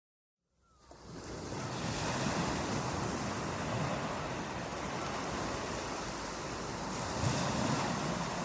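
Ocean surf washing in a steady, noisy rush, fading in from silence during the first second and swelling a little near the end.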